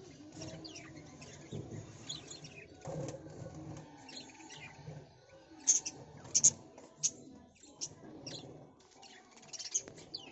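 Small birds chirping: short, sharp high calls, with a quick run of louder chirps in the middle, over a low background rumble.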